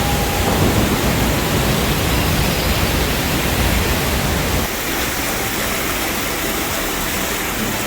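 Waterfall: a loud, steady rush of falling water, its low rumble easing slightly about five seconds in.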